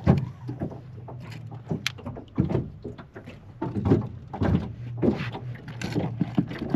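Irregular knocks and thumps against a boat, a few every second, over a steady low hum.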